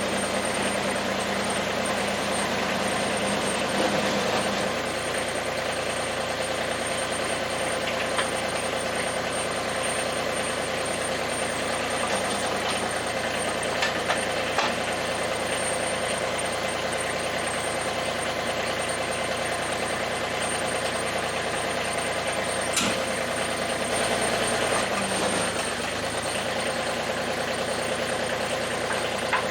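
Massey Ferguson GC2300 sub-compact tractor's diesel engine running steadily at idle, with a few faint clicks and a brief change in its note near the end.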